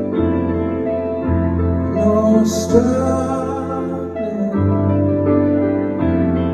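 Live band music from a slow song: sustained keyboard chords with a man singing over them.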